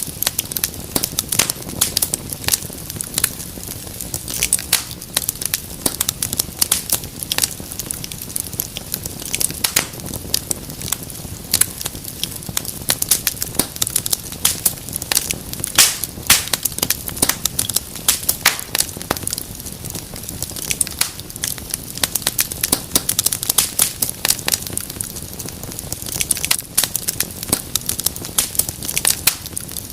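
Wood fire crackling in a fireplace: dense, irregular sharp pops and snaps over a low, steady rumble of the flames.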